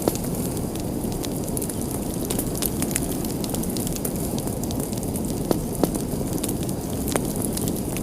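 Wood fire burning steadily with a low rushing of flames and scattered sharp crackles and pops, a few louder ones in the second half.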